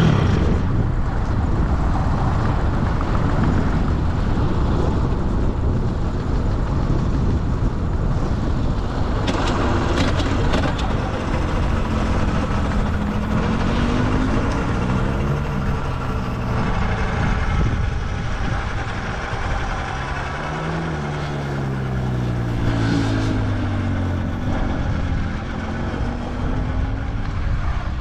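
Pitom pit bike's small single-cylinder four-stroke engine, with revs rising and falling again and again as the bike is ridden on track. Heavy wind rush on the microphone runs under it, with a few sharp clicks about ten seconds in.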